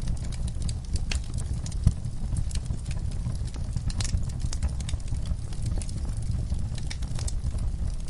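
Wood fire crackling in a fireplace: frequent sharp snaps and pops over a steady low rumble of the burning logs, with one louder pop about two seconds in.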